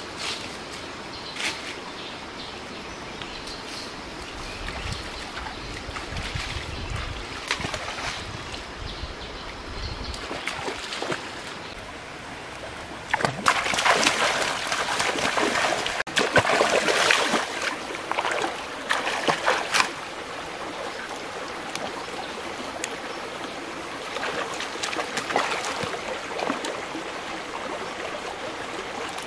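Water running, with splashing; for about seven seconds in the middle the splashing grows louder and busier.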